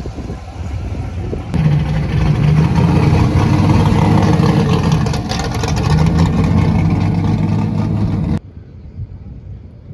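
A car engine running loudly close by with a deep, steady rumble, then cutting off suddenly a little past eight seconds in.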